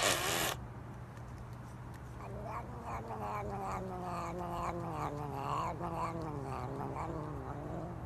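A cat yowling in a long, wavering cry that slowly falls in pitch over several seconds, after a short burst of noise at the start.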